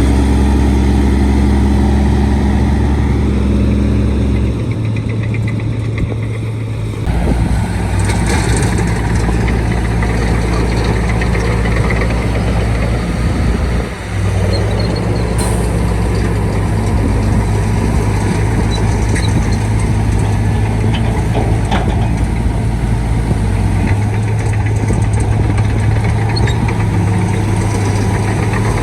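Shantui D95 crawler bulldozer's diesel engine running steadily. Its pitch shifts between about four and seven seconds in, and the sound dips briefly about fourteen seconds in.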